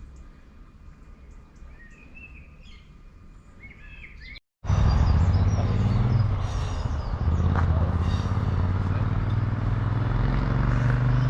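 Small birds chirping, then, about four and a half seconds in, the diesel engines of a British Rail Class 158 diesel multiple unit take over: a loud, steady low drone.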